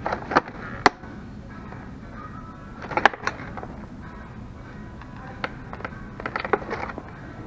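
Faint background music over a low hum, broken by several sharp clicks and knocks, a few in quick succession near the start, around three seconds in and again near the end.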